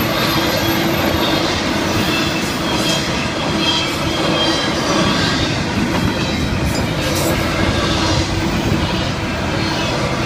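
Intermodal freight cars, double-stack container well cars and trailer flatcars, rolling steadily past: a continuous rumble of steel wheels on rail with a clickety-clack over the rail joints and occasional faint high-pitched wheel squeals.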